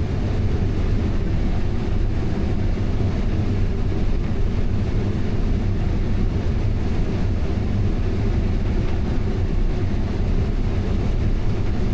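Steady low drone of a working farm machine's engine, heard from inside the cab.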